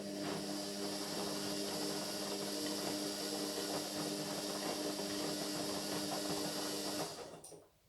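Indesit MyTime washing machine running with a steady hum and rattle, then stopping about seven seconds in and dying away quickly.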